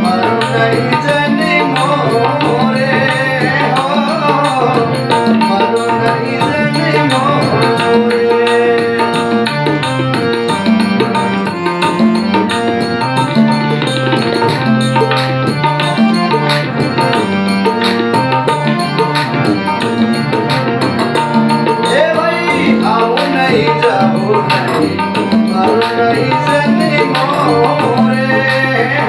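Instrumental interlude of a Rajasthani bhajan: tabla-style hand drums keep a steady, busy beat under a melodic line.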